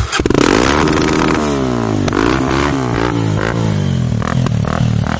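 Several dirt motorcycles revving hard and accelerating, starting suddenly. For the first few seconds their engine pitches rise and fall across one another, then they settle into a steadier drone.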